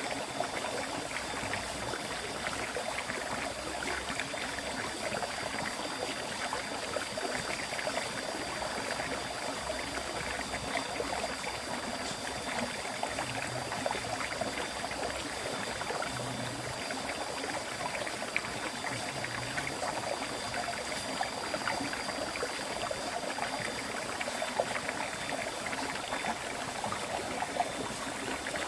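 River water flowing steadily: a continuous rush of stream water with fine splashing and no change in level.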